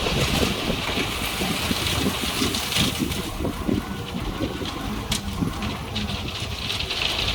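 D58A bulldozer's diesel engine running steadily with a low rumble, with scattered faint clicks over it.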